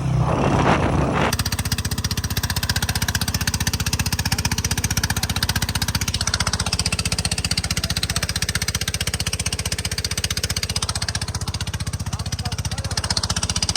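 An engine running with a rapid, even chugging beat that starts abruptly about a second in, after brief voices.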